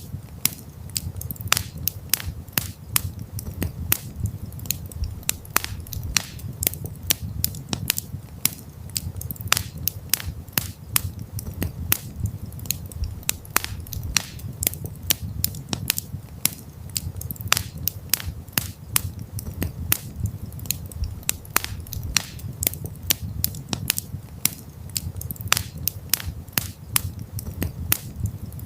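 Campfire crackling: sharp, irregular pops and snaps of burning wood, several a second, over a steady low rumble of the fire.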